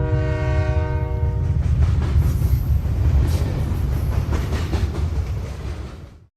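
Train horn sounding for about a second and a half over a deep rumble, then a train rolling on with clattering wheels, fading out and cutting off near the end.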